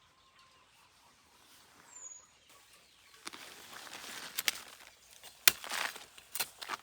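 Rustling, with several sharp knocks in the second half. A short, high, falling chirp comes about two seconds in.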